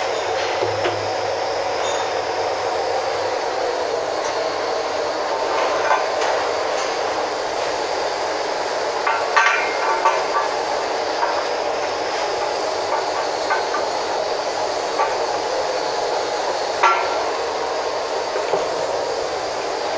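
Steady rushing noise with a few sharp clicks and clinks scattered through it, the most marked about halfway through and again near the end.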